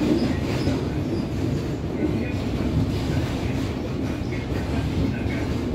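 Passenger coach running slowly over the rails: a steady low rumble of wheels on track.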